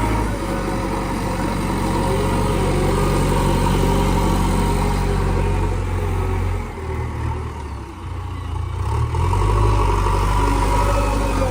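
Heavy diesel machinery engine running steadily. It eases off about seven seconds in and picks up again a couple of seconds later.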